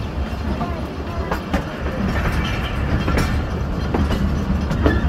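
Passenger train running along the track: a steady low rumble of the coaches with several sharp wheel clacks over rail joints at uneven intervals.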